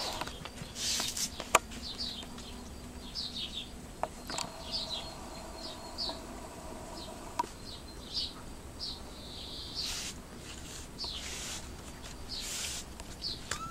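A small bird chirping over and over in short, high notes. There are a few sharp clicks and brief rustles, and a steady mid-pitched hum sounds for about three seconds in the middle.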